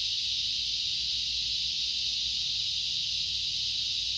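Chorus of cicadas calling together: a steady, unbroken high-pitched hiss.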